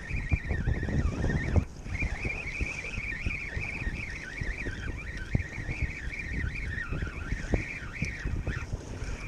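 Wind buffeting the microphone, heaviest in the first second and a half, over a continuous high warbling sound that wavers up and down without a break.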